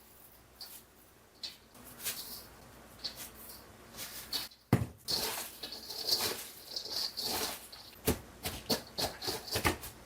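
Rustling and handling noises, with a run of sharp knocks and clicks in the second half.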